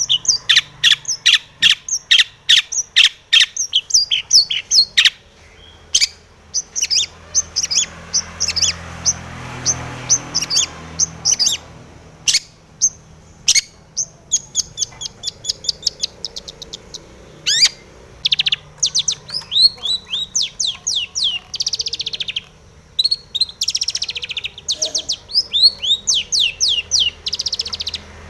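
Long-tailed shrike (cendet) singing hard: rapid runs of sharp, high chattering notes several to the second, broken by quick falling sweeps and varied mixed phrases.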